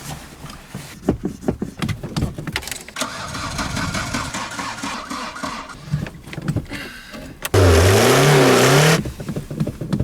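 Renault 5 engine being cranked by its starter in uneven bursts without catching: a car that cranks but won't start. Near the end it catches for about a second and a half, revving loudly with a wavering, rising note, then stumbles and sputters.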